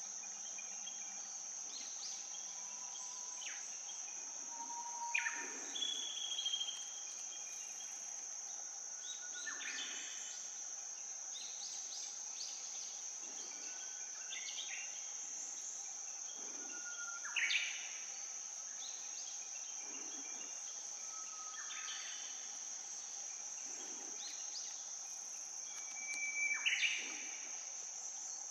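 Outdoor ambience: a steady high-pitched insect trill, with short bird chirps and whistles every few seconds.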